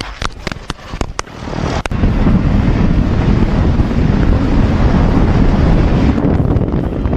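A quick string of sharp pops for about the first two seconds, then steady wind rush buffeting the microphone along with vehicle noise, as from a moving motorcycle.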